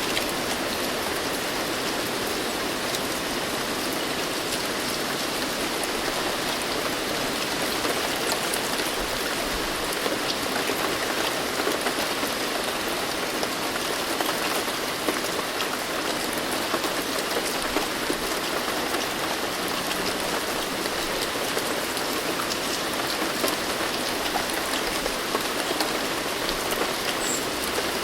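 Steady rain falling, a continuous even hiss with many small drop ticks on a surface.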